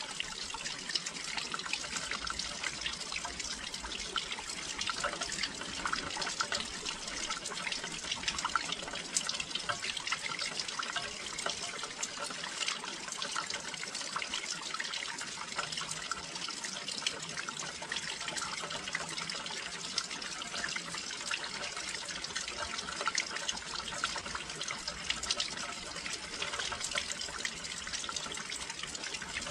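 Steady rain falling, with many small drops ticking and pattering against a windowsill.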